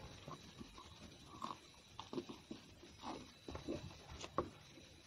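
A person chewing food close to the microphone: irregular soft smacks and clicks of the mouth, a few louder ones near the end.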